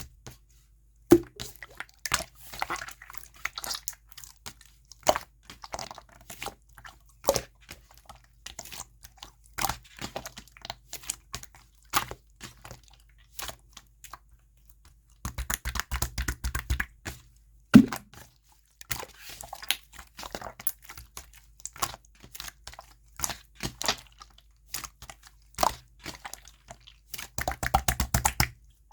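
Clear, jelly-textured slime being squeezed and poked by hand, giving irregular sticky clicks and small pops. There are two runs of rapid clicking, one a little past halfway and one near the end.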